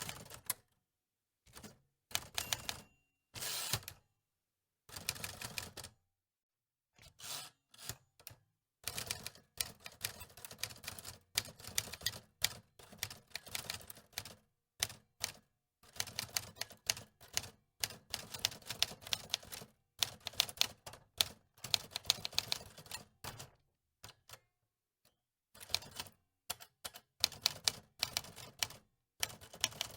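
Antique manual typewriter keys clacking in quick irregular runs, broken now and then by pauses of a second or two.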